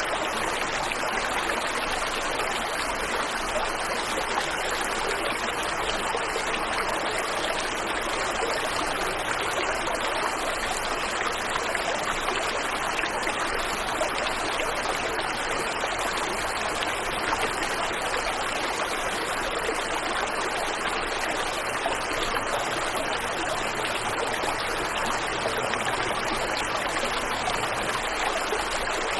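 Waterfall and the river below it running: a steady, even rush of water that does not change.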